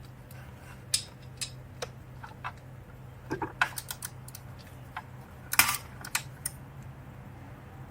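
Irregular metallic clicks from a wrench working the exhaust manifold bolts, with one sharper, louder click about five and a half seconds in that fits a torque wrench breaking at its set torque. A faint steady low hum runs underneath.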